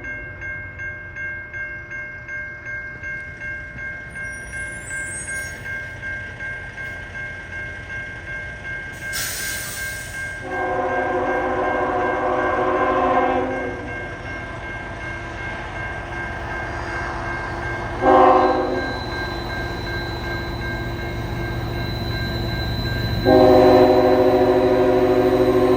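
Nathan K5HL five-chime horn on an approaching CN freight locomotive, sounded for a grade crossing: a long blast, a short one, then a long one held near the end. Under it, the locomotive's rumble grows louder, and a level-crossing bell rings steadily.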